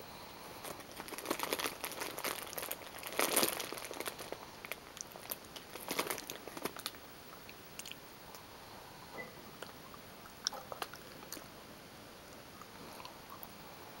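Gummy bears chewed close to the microphone, heard as mouth clicks. The clicks come thick for the first seven seconds or so, loudest about three and six seconds in, then thin out to scattered single clicks.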